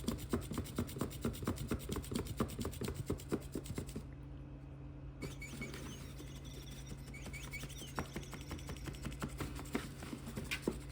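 Flapping bird cat toy with its wings beating in a rapid, even fluttering clatter of about five flaps a second. After about four seconds the flapping thins out and a few faint high chirps come in over a low steady hum.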